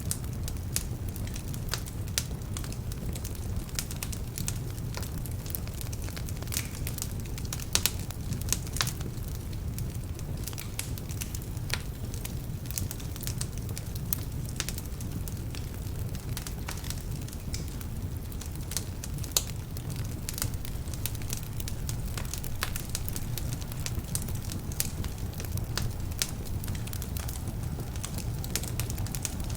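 Wood fire burning in a fireplace: a steady low rumble of flames with frequent irregular sharp crackles and pops from damp logs.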